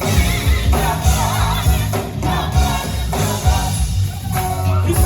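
Gospel choir singing with a live band: bass, drums and keyboard keeping a steady beat.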